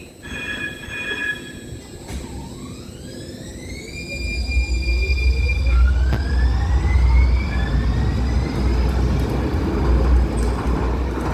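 A one-car Muni Metro light-rail train accelerating along the station platform. Its traction motors give a whine that rises in pitch in steps, over a low rumble that grows loud about four seconds in.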